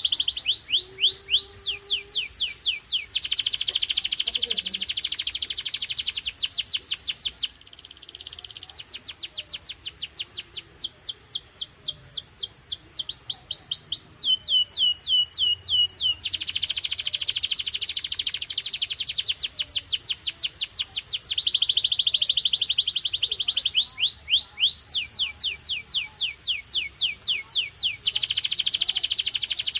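Canary singing a long, high-pitched song: runs of quick falling notes, several a second, alternate with long, dense rolls. The song is used to stimulate caged canaries to sing.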